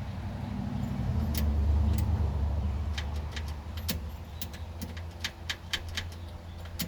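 Keys clicking and jangling in a newly installed ignition lock cylinder as the key is turned and worked, over a low hum that swells about a second in and fades after a few seconds. The truck does not start: its battery is dead.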